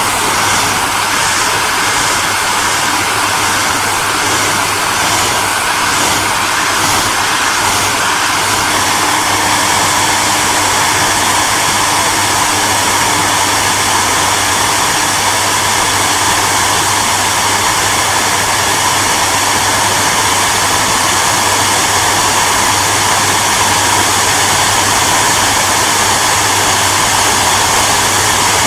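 Hairdryer running continuously: a steady rush of blown air over a low motor hum, with a faint flutter in the first several seconds before it evens out.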